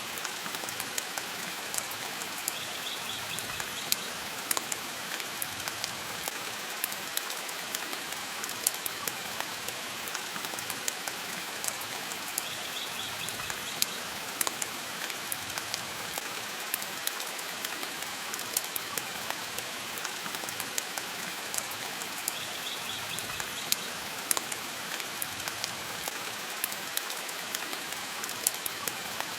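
Steady rain hissing with a wood fire crackling in a fireplace: frequent short sharp pops over an even wash of rain, and a faint brief high sound about every ten seconds.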